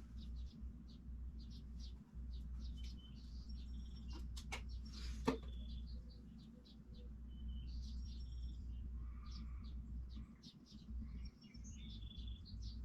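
Small birds chirping in many short, high calls over a steady low hum, with one sharp click about five seconds in.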